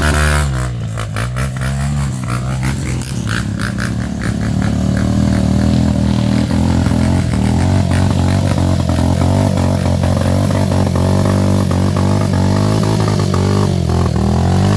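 Off-road trail motorcycle engine running and revving, its pitch dipping just after the start, with a run of sharp clicks and knocks over the first few seconds before it settles into steady running.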